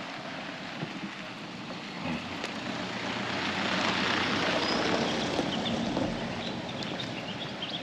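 A vehicle driving past on a dirt car park, the engine and tyre noise building up, loudest about halfway through, then fading away.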